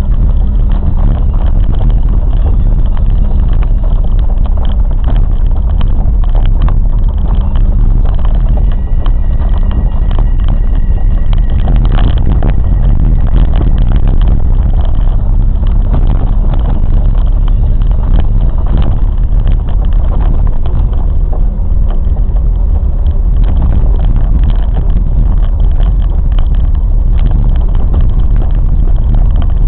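Train in motion: a steady, loud low rumble, with a faint high whine for a few seconds around the ten-second mark.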